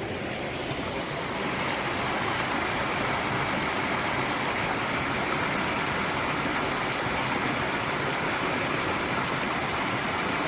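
Small waterfall on a rain-swollen creek, water rushing steadily, growing a little louder about a second and a half in.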